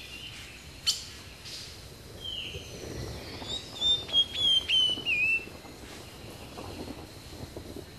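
Bird calls over a faint steady background hiss: a sharp tick about a second in, a short call near two seconds, then a loud run of high whistled notes with quick dips in pitch between about three and five seconds in.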